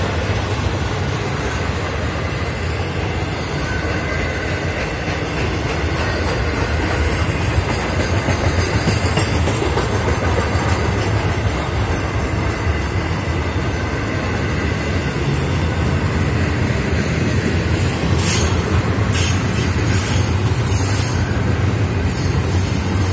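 Intermodal freight cars loaded with double-stacked containers and trailers rolling past close by: a steady rumble of steel wheels on the rails.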